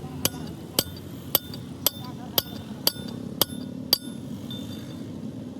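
Hammer striking metal eight times at an even pace of about two blows a second, each blow with a short metallic ring.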